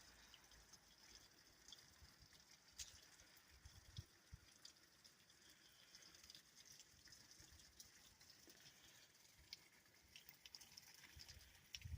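Near silence: faint outdoor room tone with scattered light ticks and a few soft low thumps.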